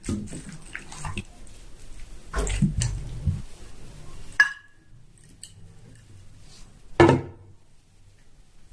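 Dishes and utensils being handled: irregular clattering and knocks, a sharp clink that rings briefly about four and a half seconds in, and a heavier knock about seven seconds in.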